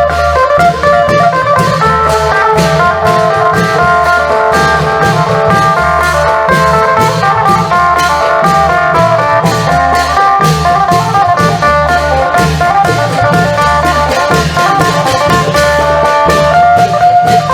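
Isan klong yao band music: a phin (northeastern Thai plucked lute) plays a fast, busy melody over long drums and percussion keeping a steady beat.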